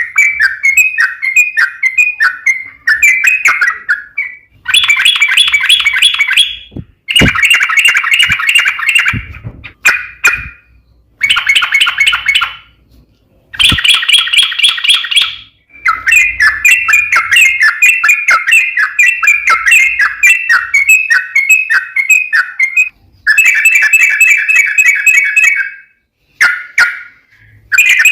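Yellow-vented bulbul (trucuk) singing long runs of rapid, repeated chattering notes. The song comes in phrases of one to several seconds, broken by short pauses.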